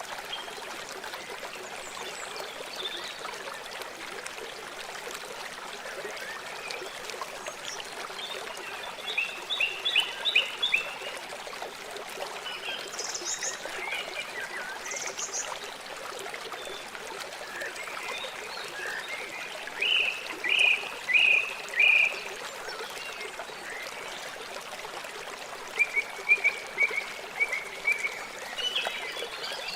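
River water flowing steadily. Over it, birds call several times in short quick series of high chirps.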